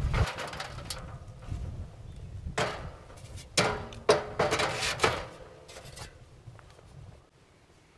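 A series of sharp knocks and clatters, about five strikes a second or so apart, dying away near the end.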